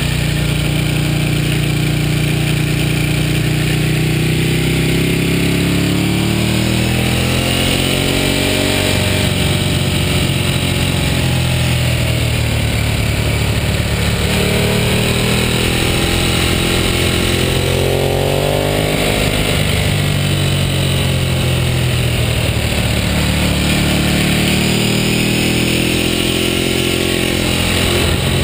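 Ducati L-twin sport bike engine under way, revs rising and falling again and again as it is ridden through a series of bends, over a steady rush of wind and road noise.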